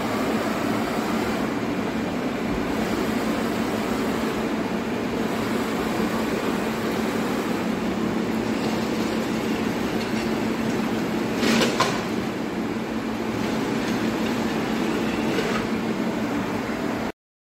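Steady machine hum with a constant low tone, broken by a sharp metallic knock about eleven and a half seconds in and a fainter one near the end, then an abrupt cut-off.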